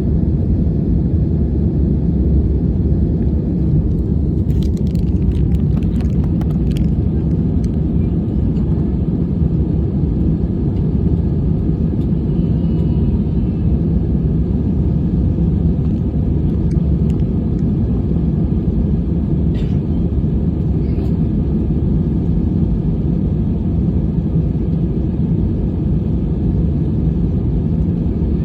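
Airliner cabin noise: a steady low rumble with a faint steady hum, and a few faint clicks about four to seven seconds in.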